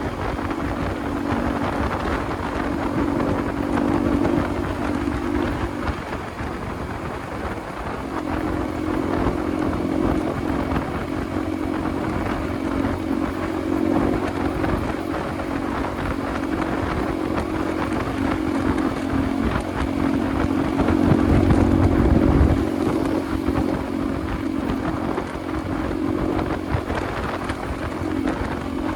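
Motorcycle engine running steadily while riding, with wind buffeting the microphone. The engine note drops away for a couple of seconds about six seconds in, then comes back steady.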